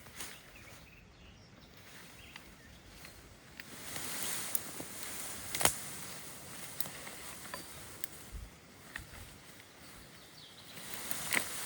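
Outdoor rustling with scattered sharp clicks and snaps, the loudest a little past halfway through.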